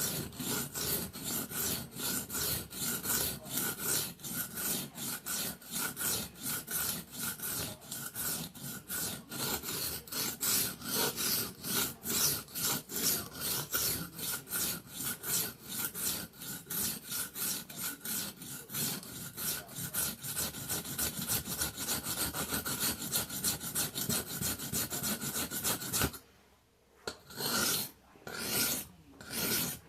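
Karambit knife blade stroked back and forth on a whetstone, a rapid rasping rhythm of about three strokes a second. Near the end it stops briefly, then a few slower, separate strokes follow.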